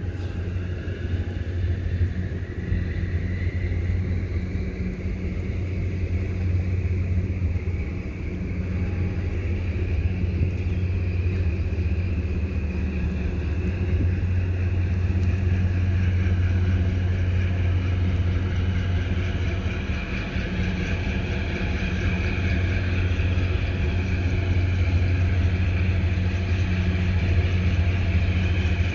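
Steady low engine rumble, with a fainter whine above it that rises in pitch over the first few seconds and then holds.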